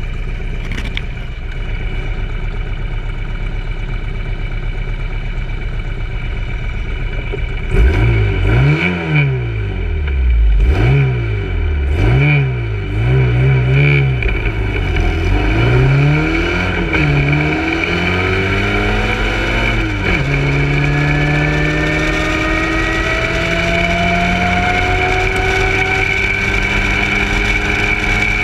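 Austin-Healey Sprite race car's engine, heard from on board: idling steadily, then revved hard several times from about 8 seconds in, the pitch rising and falling with each blip. From about 17 seconds in it pulls away under full acceleration, the pitch climbing in long rises broken by gear changes.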